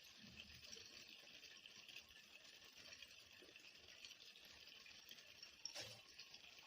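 Near silence: a faint steady hiss, with one soft knock near the end.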